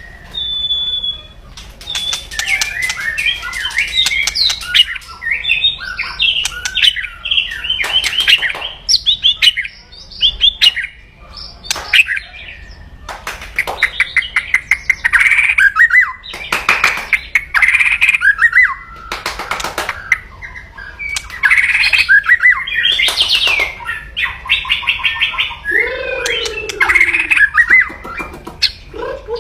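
White-rumped shama (murai batu) singing aggressively: quick varied whistled phrases mixed with many fast, harsh crackling rattles (kretekan), the agitated song it uses to challenge a rival.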